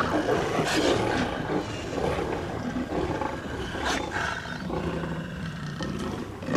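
Monster sound effect: a beast growling steadily, with sharper bursts about a second in and again around four seconds in.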